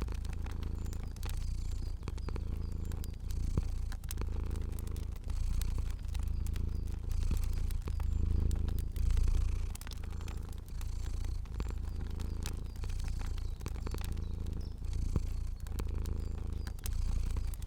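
Cat purring steadily, the purr swelling and easing about once a second with each breath in and out, over scattered sharp crackles of a fire.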